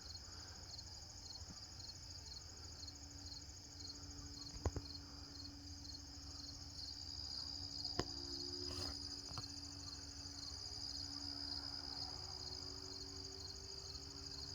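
Crickets chirping in a steady, fast-pulsing chorus. Under it runs a faint low steady hum, and two sharp clicks sound, about five seconds in and about eight seconds in.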